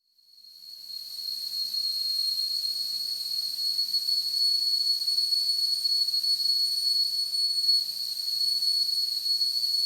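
Whistling kettle at the boil: a steady, high-pitched whistle over steam hiss, swelling in over the first second or so and then holding.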